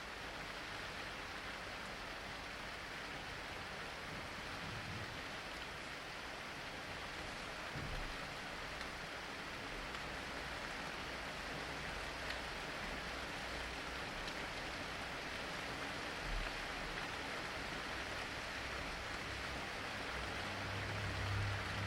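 Steady, dense rain falling, a continuous hiss of drops, with a few brief low thumps; the last, near the end, lasts about a second.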